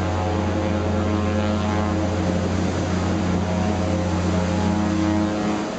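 A steady engine drone, low and even-pitched, that cuts off shortly before the end, giving way to wind and waves.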